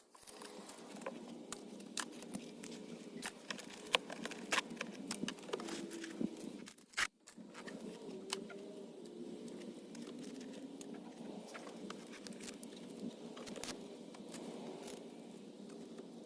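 Scattered light clicks, taps and rustles of loose items being handled and pulled out of a car interior, with a few louder knocks, over a faint wavering hum. The sound drops out briefly about halfway through.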